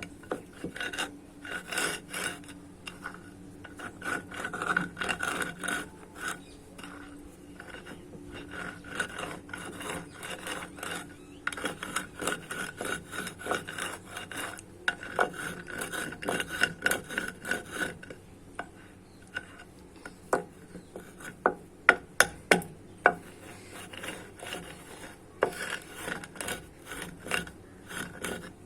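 Dried white mud being crushed and crumbled on a hard floor: a continuous run of crunchy, gritty scraping crackles, with a few sharp, loud cracks about three-quarters of the way in.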